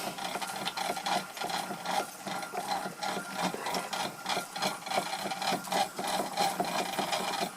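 Stuart Victorian mill engine, a model stationary steam engine, running on the last of the steam with the boiler's gas burner turned off, making a rapid, uneven clicking and chuffing.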